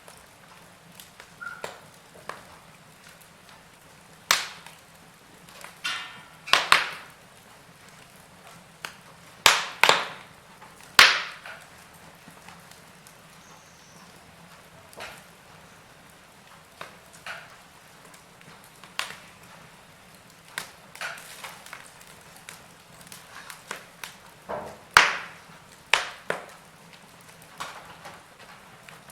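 Wood fire in a fireplace crackling, with irregular sharp pops and snaps, a few of them much louder than the rest.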